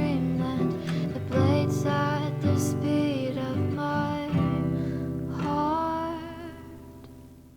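Closing bars of an acoustic song: acoustic guitar strumming chords under a wavering melody line, the last chord fading away near the end.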